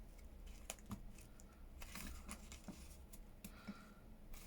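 Faint handling of paper craft labels: light rustling with scattered soft ticks as they are sorted by hand.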